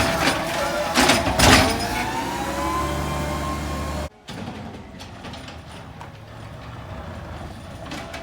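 Rear-loader garbage truck at work: two loud metal clangs, then a whine that rises in pitch as the machinery runs. About four seconds in the sound cuts off sharply and gives way to a quieter, steady truck noise.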